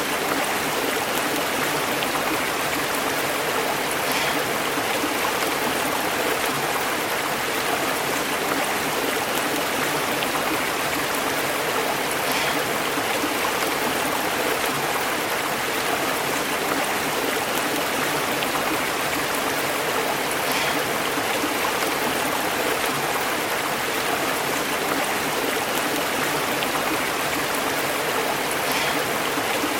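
A stream burbling over rocks: a steady, even rush of flowing water.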